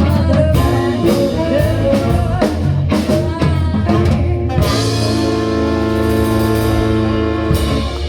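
Live rock band (drum kit, guitar and singing) playing the last bars of a song, then holding a final chord over a cymbal wash that stops sharply near the end.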